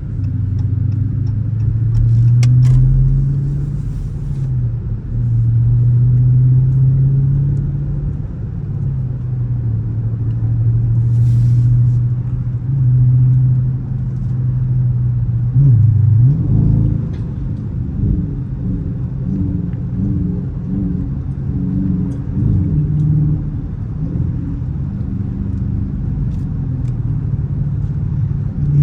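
Dodge Charger R/T's 5.7-litre HEMI V8 running at low revs while driving. Its note holds steady, dips sharply about sixteen seconds in, then wavers up and down.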